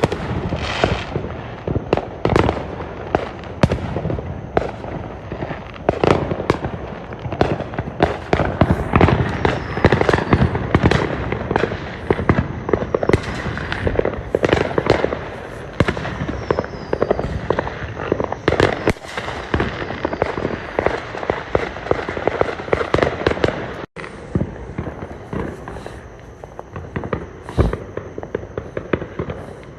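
Fireworks going off in a dense, rapid barrage of bangs and crackles, several a second, easing to a few scattered bangs in the last several seconds.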